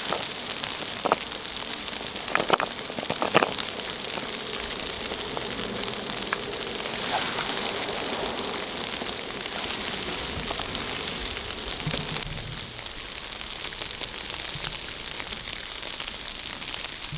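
Heavy snow falling and pattering steadily on a tent or tarp, an even hiss, with a few sharp clicks in the first few seconds.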